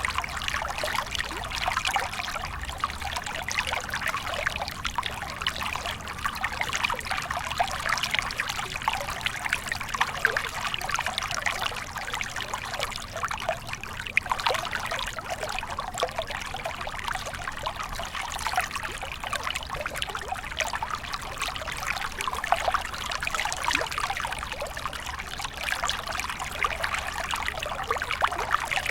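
Small stream flowing and trickling steadily over stones, a continuous splashing babble without pauses.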